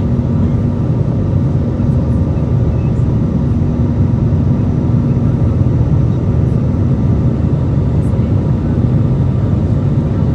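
Airbus A320 cabin noise: the jet engines and airflow make a steady, even roar with a faint constant hum through it, heard from inside the passenger cabin.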